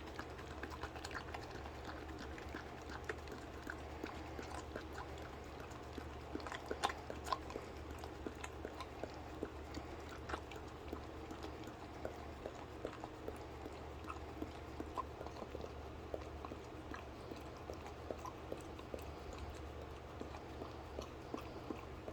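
A dog licking and eating a puppuccino, whipped cream in a small cup: a run of irregular wet licks and smacks, over a steady low hum.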